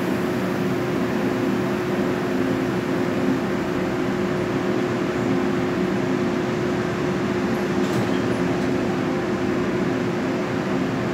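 Steady hum of a stopped Taiwan Railway push-pull express train idling at the platform, its on-board equipment and roof air-conditioning units running with a constant low drone.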